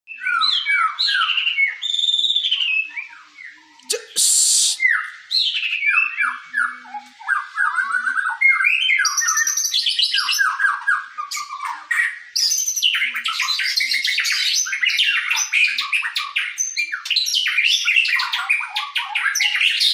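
White-rumped shama singing a long, varied song of rapid whistled phrases and harsh chattering notes, growing denser and faster in the second half, with one loud harsh rasp about four seconds in.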